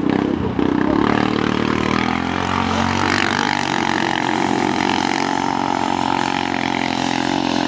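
ATV engines running and revving in mud, with a steady high whine joining in about three seconds in.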